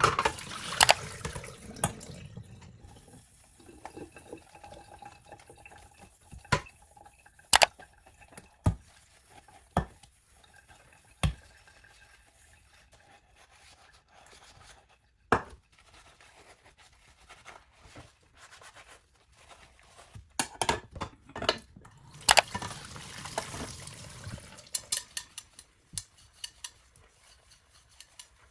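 Dishes being washed by hand at a sink: scattered sharp clinks and knocks of crockery and cutlery, with water running briefly near the start and again about two-thirds of the way through.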